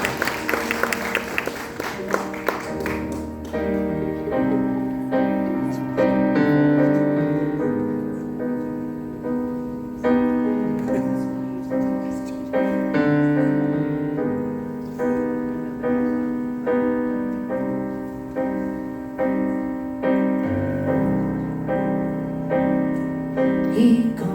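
Audience applause fading out over the first few seconds as a solo piano intro starts. Repeated chords are struck about once a second, each one ringing and fading.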